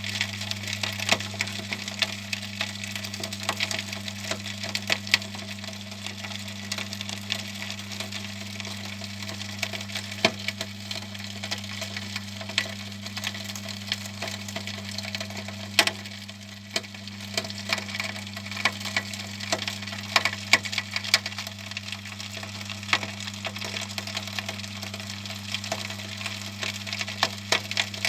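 Homemade furnace coal feeder running: a steady motor hum under a dense, irregular crackle and clicking of eco-pea coal being moved and crushed along the feeder.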